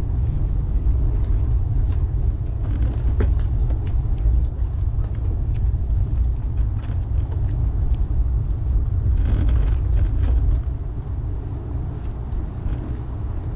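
Steady low rumble of wind and road noise from moving along, with a few light clicks, easing off somewhat about three-quarters of the way through.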